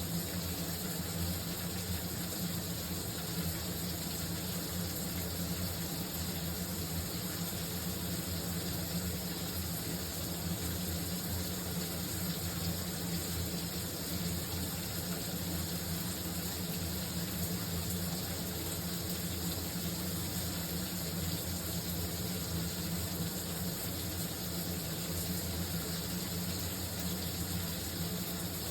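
Shower water running steadily, an even hiss of falling spray with a steady low hum underneath.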